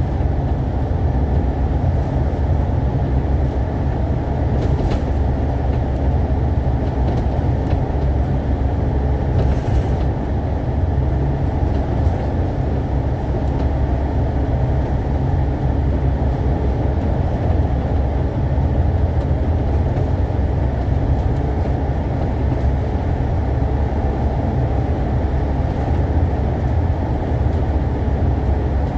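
Alexander Dennis Enviro500 MMC double-decker bus under way, heard from inside the cabin: a steady low rumble of engine and road noise with no distinct events.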